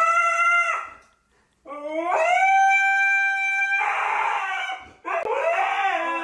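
Dog howling: one howl ends about a second in, then a long howl rises in pitch and holds for about three seconds, and another begins about five seconds in.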